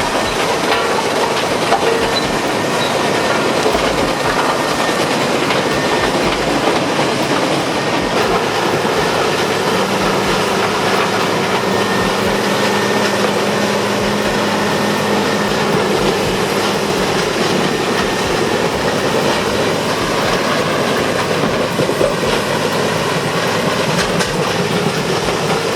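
Peterson 5710D wood grinder, driven by a 1,050 horsepower Cat diesel engine, running and grinding wood: a loud, dense, steady clattering roar. A steady hum joins in about ten seconds in and fades out around seventeen seconds.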